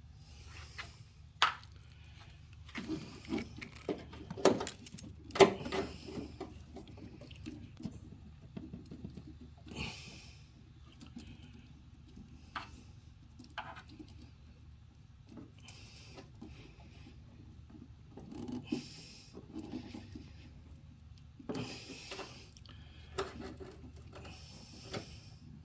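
Scattered clicks, knocks and scrapes of parts and hand tools being handled, in clusters, over a faint steady low hum.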